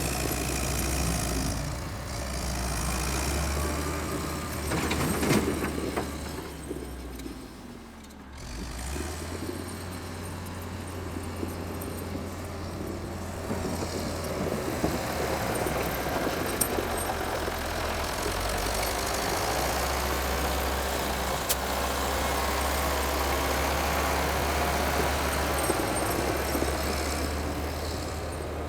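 Vintage Volvo's engine running steadily, briefly quieter about eight seconds in.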